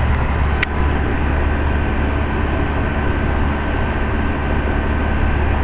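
Steady low mechanical hum with a faint steady whine above it, from an older York heat pump outdoor unit running; a single short click about half a second in.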